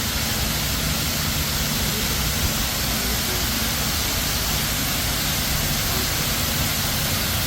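Man-made waterfall cascading down rock: a steady, unbroken rush of falling water.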